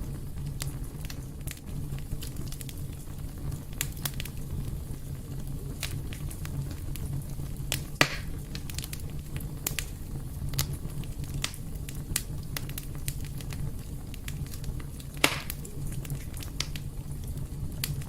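Fire burning in a fireplace: a steady low rumble of flames with constant small crackles and two louder sharp pops, one about eight seconds in and one about fifteen seconds in.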